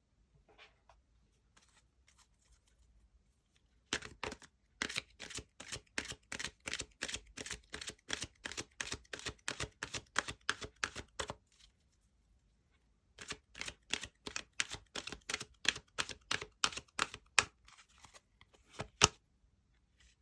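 Tarot cards being shuffled by hand, a quick run of sharp card slaps about three or four a second, stopping briefly near the middle and then starting again for several more seconds.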